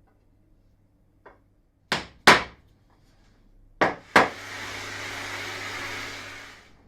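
Workshop tool sounds: a faint click, then four sharp knocks in two pairs, followed by a power tool running with a steady hiss for about two and a half seconds before it fades out.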